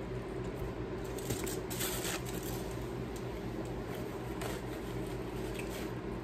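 Chewing a mouthful of chicken burrito, with soft wet squishing mouth sounds. There is a brief rustle about two seconds in, over a steady low room hum.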